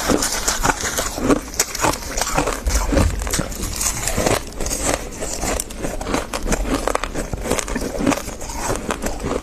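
Close-miked chewing of dry freezer frost: a dense, continuous run of crisp crackling crunches.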